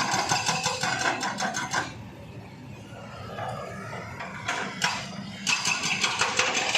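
A small engine running with a rapid, even knocking beat, which drops away about two seconds in and comes back strongly about five and a half seconds in, with a couple of sharp clicks just before.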